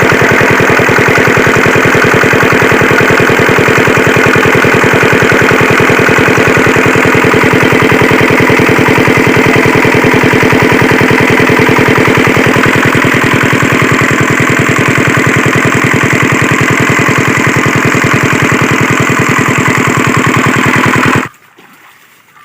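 Single-cylinder farm diesel engine of a water-pump set running steadily at speed, with an even knocking firing beat. It cuts off abruptly about a second before the end.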